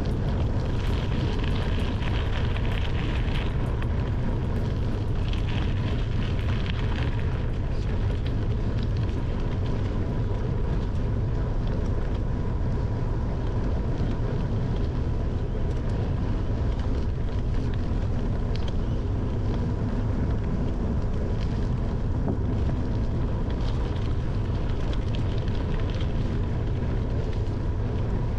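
Steady wind buffeting on a handlebar-mounted camera's microphone while riding a bicycle, mixed with the rumble of the tyres rolling over the trail surface.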